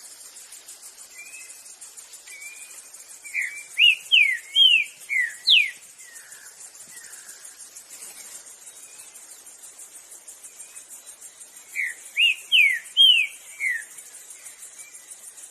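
Green-winged saltator (trinca-ferro) singing two short phrases of loud, clear whistled notes, five or six quick notes each, the first about three seconds in and the second about twelve seconds in. A steady high chirring of insects runs underneath.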